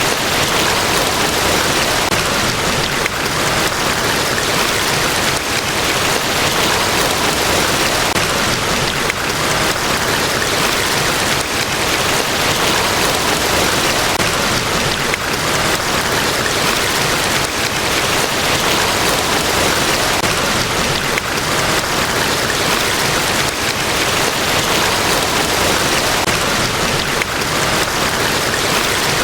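Large waterfall, Niagara Falls, rushing in a steady, loud, unbroken roar of falling water.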